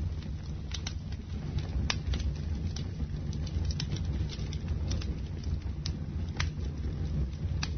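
Bonfire burning with a steady low rumble and frequent sharp crackles and pops of burning wood.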